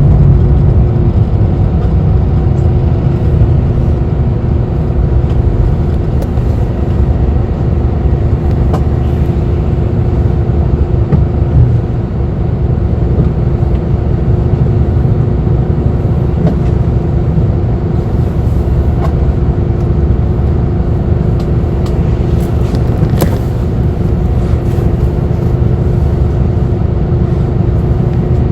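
Bus interior: steady low engine and road rumble with a constant droning hum, and a few light clicks or rattles now and then.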